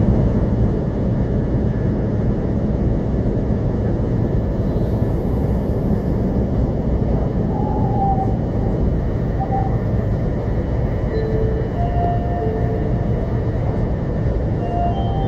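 Steady low rumble of a Shinkansen bullet train heard from inside the passenger cabin, as the train slows down toward a station stop.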